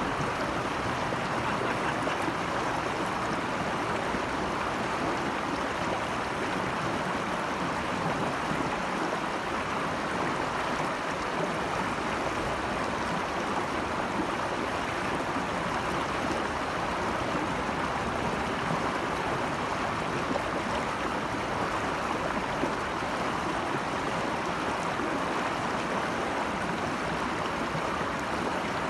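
Steady rush of running water from a mountain stream or cascade, an even hiss with no breaks.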